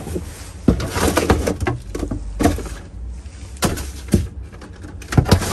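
Rummaging through trash in a dumpster: a series of irregular knocks and short rustles as items are moved and handled, over a low steady rumble.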